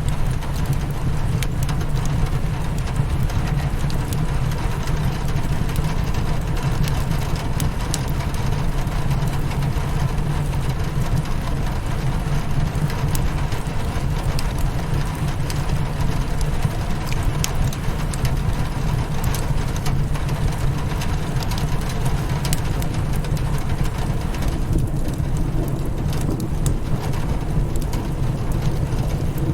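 Rain pattering steadily on a window over a crackling fireplace, with scattered sharp pops from the fire and a steady low rumble underneath.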